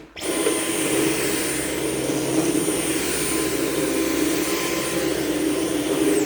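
Dyson V11 Absolute cordless stick vacuum switched on and running steadily with a thin high whine, then switched off near the end, the whine dropping as the motor spins down.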